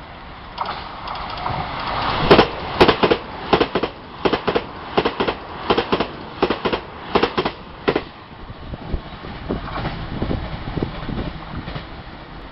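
A train passing at speed, its wheels clicking over the rail joints in quick pairs, one pair per bogie, for several seconds before fading to softer clatter. No horn is sounded.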